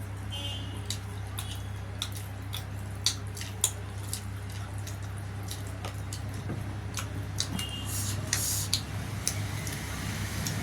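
Wet mouth sounds of someone eating dhido and spicy chicken: chewing, smacking and sticky clicks, over a steady low hum.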